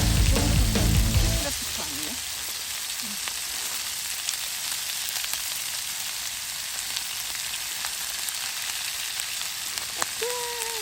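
Steak frying in butter in a pan: a steady high sizzle with small crackles and pops. Background music cuts off about a second and a half in.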